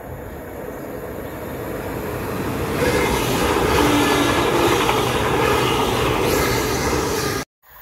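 TransPennine Express passenger train passing through the station at speed, its rumble and wheel noise building as it approaches and staying loud as the coaches go by close to the platform. The sound cuts off suddenly near the end.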